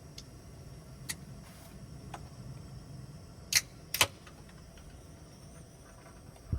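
A few short sharp clicks and taps, the two loudest close together about halfway through, over a low steady hum.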